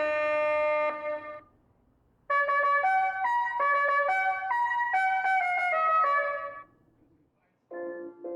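Tesla Model 3 Boombox sound effect playing a brass, trumpet-like tune from the car's external pedestrian speaker. A held note dies away about a second and a half in; after a short pause, a melody of held notes plays for about four seconds. A different tune starts near the end.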